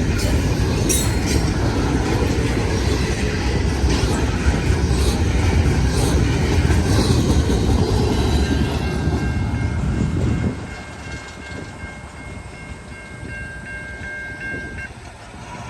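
CN freight train rolling past close by, its cars' wheels rumbling and clattering over the rail joints. The rumble drops off sharply about ten seconds in, and a thin, steady, high-pitched squeal holds for several seconds around then.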